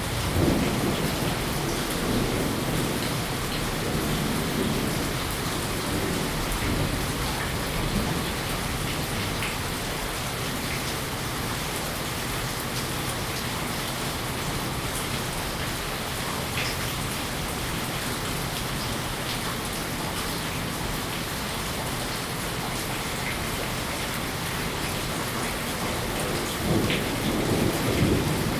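Steady rain, with low rumbles of thunder in the first few seconds and again near the end.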